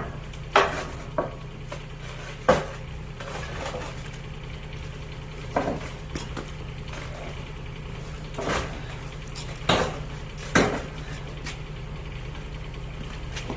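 An engine idling low and steady, with sharp metallic clanks and knocks every one to three seconds, about seven in all, as boulders are moved into place.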